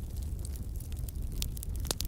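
Wood fire crackling, with scattered small pops and one sharper crack near the end, over a steady low rumble.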